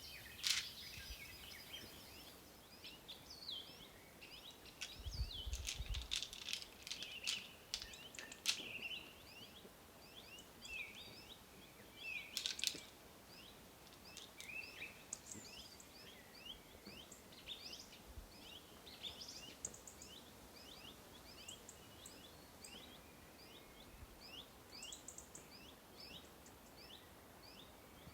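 Small birds chirping steadily with many short, quick chirps, over a low background hiss. A few sharp clicks or taps stand out about six to nine seconds in and again near twelve seconds, with a brief low rumble around five seconds in.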